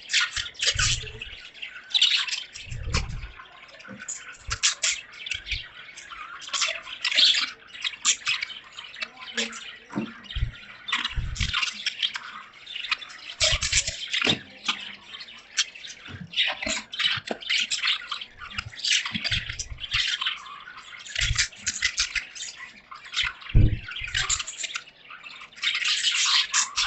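A flock of budgerigars chirping and chattering non-stop in a dense, rapid warble, over dripping rainwater. Short low thumps come every few seconds.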